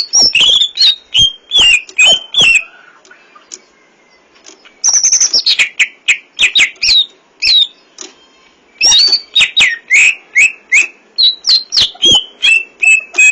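Green leafbird (cucak ijo) singing loudly in three bursts of sharp, sweeping whistles and clicks, with short pauses after about two and a half seconds and again around eight seconds. The third phrase ends in a quick run of repeated notes. This is the full song with mimicked inserts ('isian') that keepers prize.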